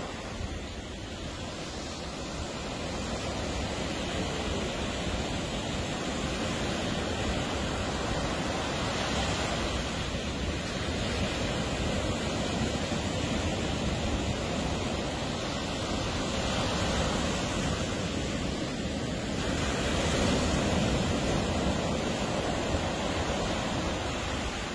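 Ocean surf washing onto a beach: a steady rush of breaking waves that swells louder and eases off every few seconds.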